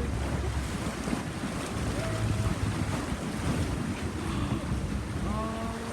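Wind buffeting the microphone on an open boat, over the wash of waves and sea water. A steady low rumble in the first second, and faint brief voices twice.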